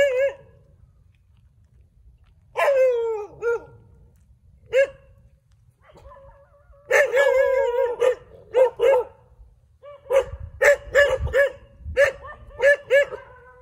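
Dogs barking: scattered single barks, a drawn-out wavering bark about seven seconds in, then a quick run of sharp barks near the end.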